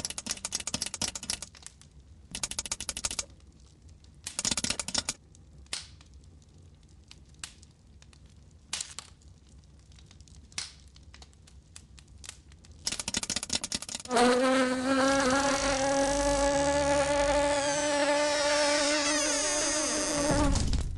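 Cartoon fly buzzing: a loud, steady pitched drone that starts suddenly about two-thirds of the way in and slides down in pitch as it stops near the end. Before it come scattered short scrapes and clicks.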